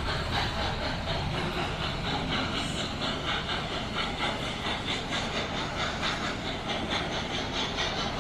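Steam-hauled train running at speed: a steady rumble and hiss with a quick, even beat.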